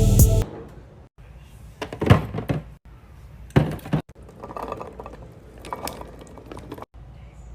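Music stops abruptly. Then come a few scattered knocks and thunks of items and containers being handled and set down, with some softer rustling and handling between them.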